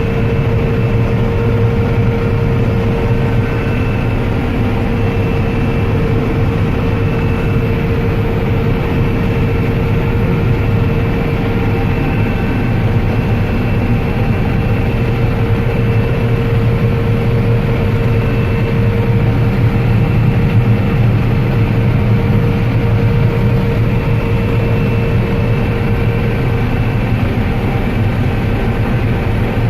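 Combine harvester running steadily while harvesting corn: a continuous low engine drone with a steady tone held over it.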